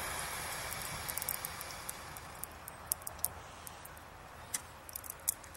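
Oil sizzling on the hot steel of a railroad spike knife blade just tempered with a propane torch, applied to lock in the temper. A hiss fades away steadily, with scattered small pops and crackles.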